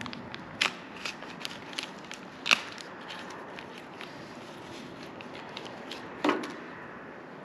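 Scattered clicks and taps of small parts being handled while a car's brake and clutch pedal assembly is reassembled, with three louder knocks spread through.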